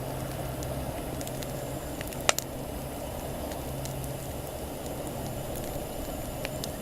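Wood campfire crackling, with one sharp pop about two seconds in and a few faint ticks, over a steady low hum.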